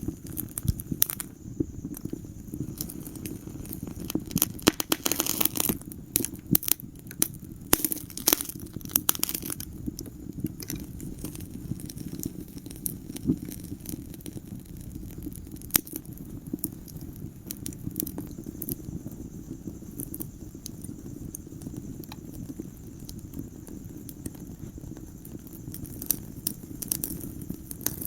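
Wood fire crackling in a fireplace: irregular sharp pops and snaps over a low steady rush of burning. The pops come thickest in the first ten seconds or so and turn sparser after that.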